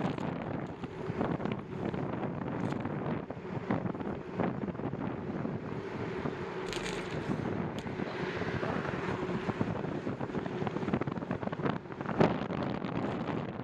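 Wind buffeting the microphone on a moving bicycle: an uneven rushing rumble broken by gusty thumps, with one stronger thump about twelve seconds in.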